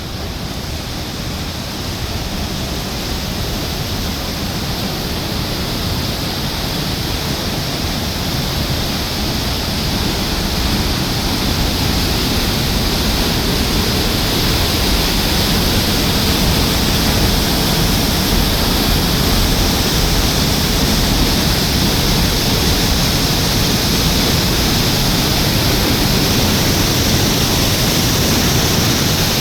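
Thur waterfalls rushing: a steady, dense water noise that grows gradually louder.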